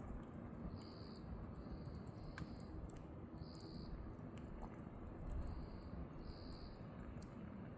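Wood fire burning in a fire pit: a low steady rumble with scattered sharp crackles and pops. A cricket chirps alongside, a short chirp every second or so.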